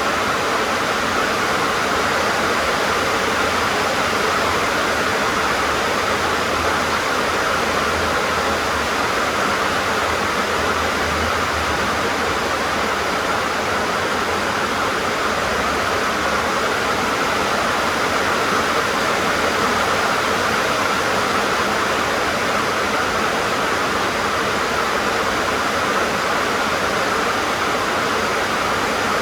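Heavy rain drumming steadily on a tin (sheet-metal) roof, a dense even hiss with no let-up.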